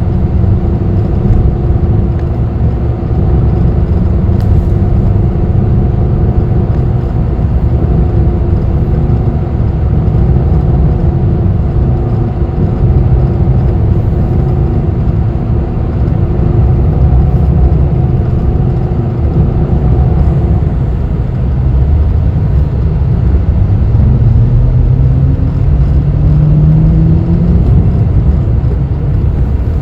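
Bus engine and road rumble heard from inside the moving bus, steady and low. Over the last several seconds the engine's drone rises in pitch as the bus accelerates.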